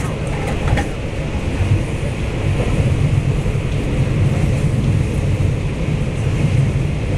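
Steady low rumble of a Taiwan Railway DR2800 diesel multiple unit running at speed through a tunnel, heard inside the passenger car, which carries an underfloor diesel engine.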